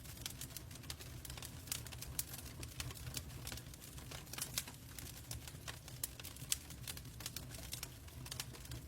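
Wood fire crackling in a fireplace: irregular sharp pops and snaps over a low, steady rumble of burning, with the loudest pop about six and a half seconds in.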